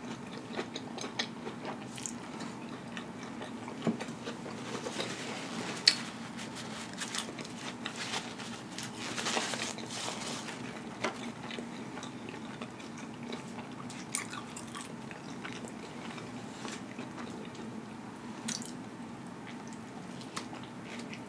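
Close-miked chewing of an Impossible Whopper loaded with lettuce, pickles and onions: scattered wet mouth clicks and soft crunches, with a fresh bite taken near the end.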